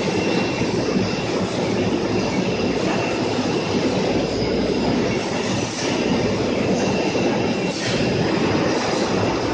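Chicken slaughtering line machinery running: a steady, dense metallic clatter with a faint high squeal held through it.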